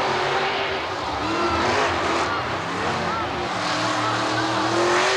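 Savage Beast monster truck's 422-cubic-inch engine revving hard on the track, its pitch climbing and dropping again and again over a loud noisy roar.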